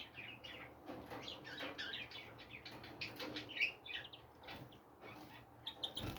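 A group of small songbirds chirping and twittering, many short overlapping calls.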